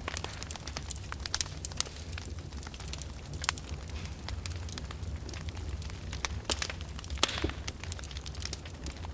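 Open fire burning in a fireplace, crackling with frequent irregular sharp pops over a steady low rumble of flame. There is a short hiss about seven seconds in.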